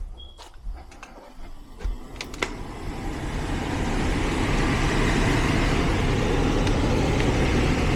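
A few clicks and knocks, then an HVAC unit starting: its fan spins up over a second or two into a steady whooshing run once power is restored.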